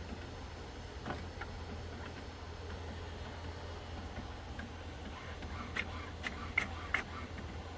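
HP OfficeJet Pro 8710 inkjet printer working through a printhead alignment: a steady low hum with a few sharp mechanical clicks, one about a second in and a quick run of four or five near the end.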